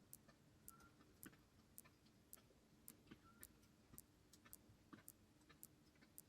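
Faint, evenly spaced ticking, a little under two ticks a second, over a low steady hum.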